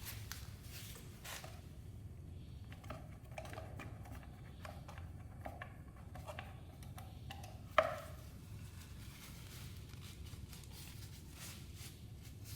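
Faint scattered clicks and light knocks of small objects being handled, with one sharper click about eight seconds in, over a low steady hum.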